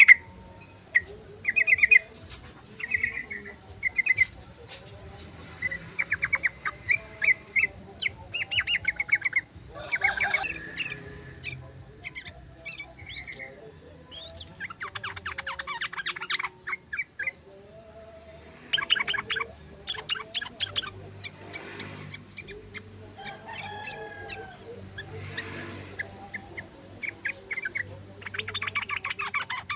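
Yellow-vented bulbul (trucukan) singing in repeated bursts of rapid chattering trills, each a second or two long, with short pauses between them.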